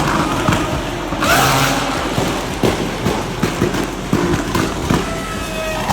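Car engine revving with a run of sharp exhaust pops and bangs, the crackle of unburnt fuel igniting in the exhaust as it shoots flames.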